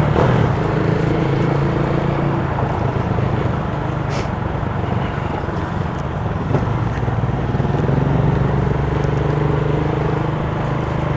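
Motorcycle engine running at a steady, slightly varying pitch while riding, over a constant hiss of wind and road noise.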